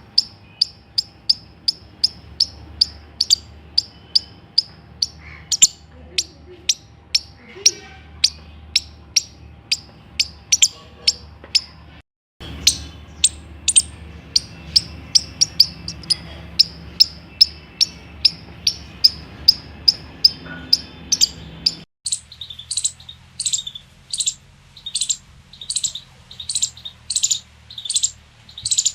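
Squirrel alarm call: sharp, high chirps repeated steadily at about two to three a second. The calling breaks off abruptly twice and resumes, the last stretch with slightly longer, downward-sweeping chirps.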